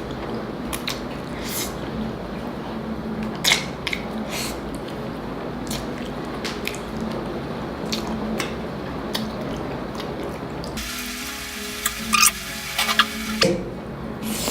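Close-miked eating: chewing with scattered sharp, crisp clicks and wet mouth sounds, a few louder clicks near the end.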